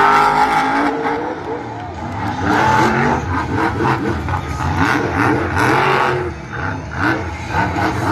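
Monster truck engine revving hard, its pitch rising and falling over and over as the truck is driven.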